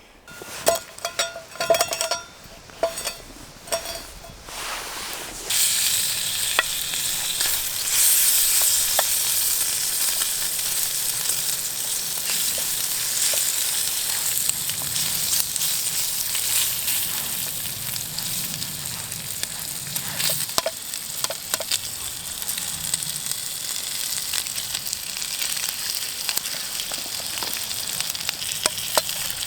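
A few scattered knocks, then about five seconds in, food starts sizzling in a pan over a campfire: a sudden, steady, high frying hiss that carries on to the end.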